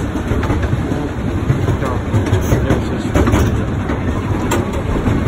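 Amusement-park railroad train in motion, heard from aboard its open car: a steady low rumble of the car rolling along the track, with occasional sharp clicks.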